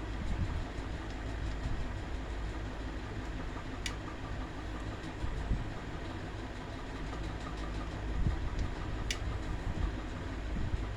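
Electric table fan running steadily with a low motor hum and rumble. Two sharp clicks, about four seconds in and again about nine seconds in.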